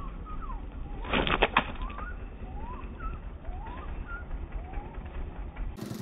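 Small birds calling with short rising and falling chirps over a low steady rumble, and, a little over a second in, a brief burst of about four sharp claps, the loudest thing heard.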